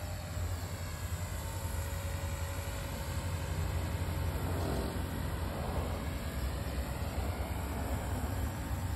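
Small V950 electric RC helicopter flying, its motor and rotor whine drifting up and down in pitch as it manoeuvres. Heavy wind rumble on the microphone runs underneath.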